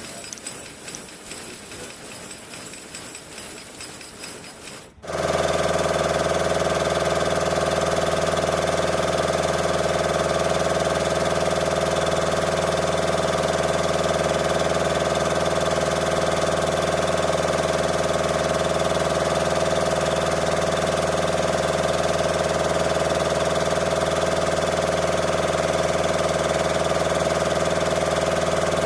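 An engine running steadily with an even hum, cutting in abruptly about five seconds in after a quieter stretch.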